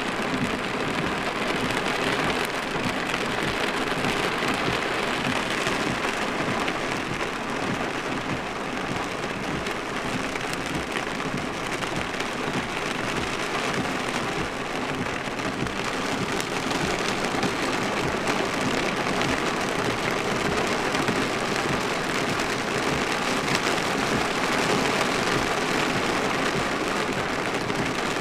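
Steady rain drumming on a truck's roof and windshield, heard from inside the cab: a dense, even patter of drops.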